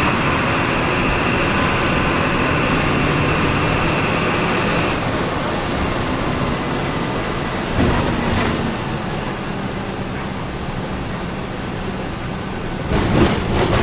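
Volkswagen 17.230 EOD city bus engine running, heard from inside the bus. The engine's pitch falls about five seconds in and settles to a lower, steadier hum. There is a knock a few seconds later and a short, loud burst of sound near the end.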